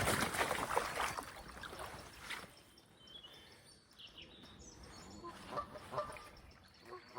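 A loud, noisy rush with knocks for the first two seconds or so. Then quieter lakeside ambience with small birds chirping, and geese starting to honk in the last couple of seconds.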